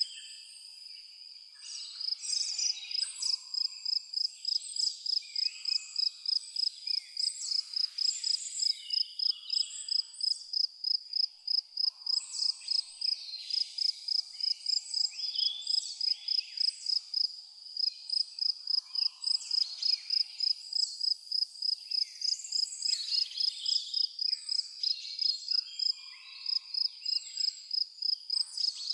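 A cricket chirping in a steady high-pitched rhythm, about two to three chirps a second, pausing briefly at the start and once midway, while several birds sing short varied phrases over it.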